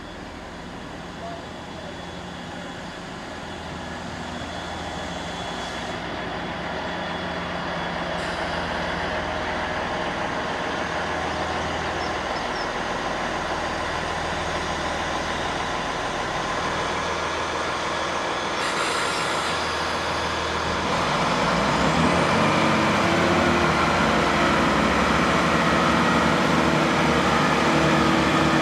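Diesel train approaching and growing steadily louder. Its engine note comes through strongly about two-thirds of the way in.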